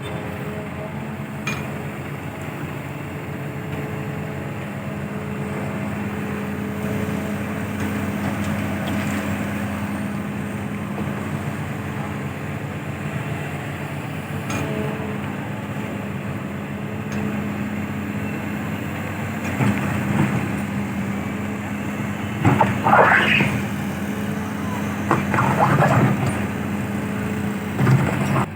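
Heavy diesel engine of construction machinery running steadily, a low pitched hum. Several louder, brief sounds rise and fall in pitch in the last few seconds.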